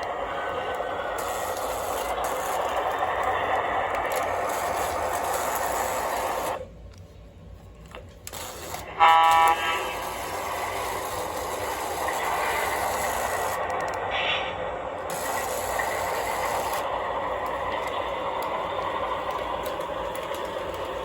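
O-gauge model train running on the layout's track, a steady running noise of motor and wheels. The noise drops away for a couple of seconds, then the locomotive's horn sounds once, briefly, about nine seconds in.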